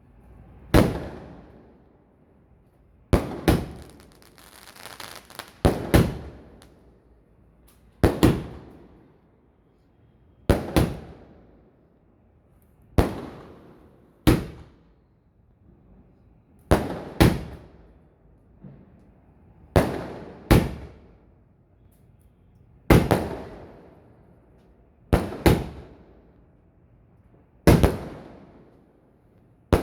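'Arabian Delight' 120-shot fireworks cake firing: sharp bangs, often in close pairs, about every two and a half seconds, each followed by a fading crackle.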